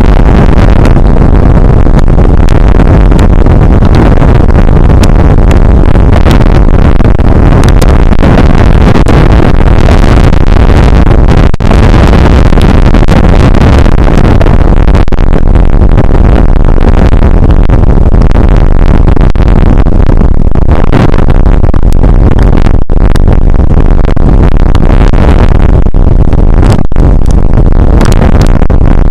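Rain shower on an outdoor weather camera's microphone: a steady rushing noise with a heavy low rumble, so loud it is close to overloading, with a few very brief dropouts.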